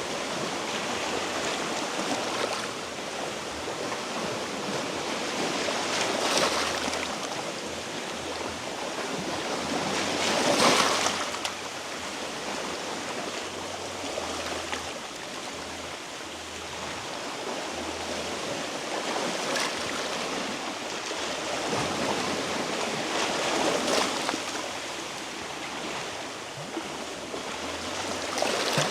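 Sea waves washing against a rocky shore, swelling every few seconds and loudest about ten seconds in.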